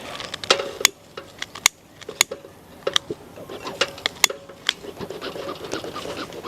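A hand-held lighter struck again and again to light the sugarcane mulch in a bee smoker, making a dozen or so sharp clicks at uneven intervals, some with a brief metallic ring.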